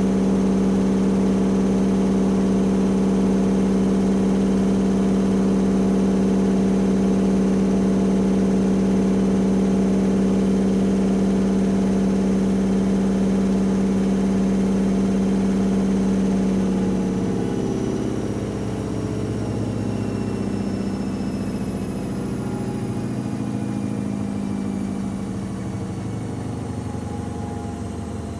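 AEG Electrolux Lavamat L74810 washing machine spinning at a steady high speed, its drum and motor giving a loud, even hum. A little past halfway the sound drops and the motor's whine falls steadily in pitch as the spin slows down.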